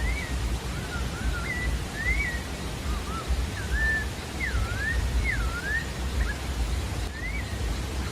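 A sabiá-da-várzea singing: a string of clear whistled notes, each a short slur rising or falling, with a brief pause before one last note near the end. A steady low-pitched background noise runs beneath it.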